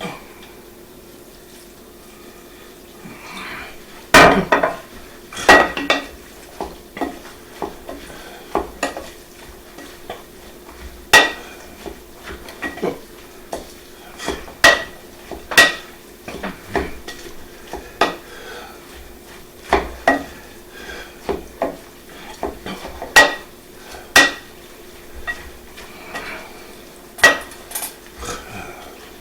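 A utensil stirring bread stuffing in a mixing bowl, knocking and clinking against the bowl at irregular intervals as the added chicken broth is worked in. A faint steady hum runs underneath.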